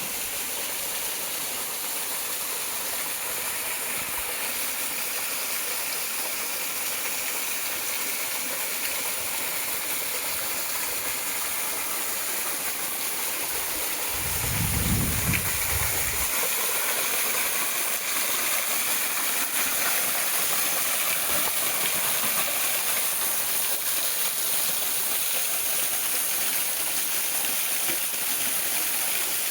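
Small mountain-stream waterfall: a steady rush of falling water. A brief low rumble comes about halfway through, and the water is slightly louder after it.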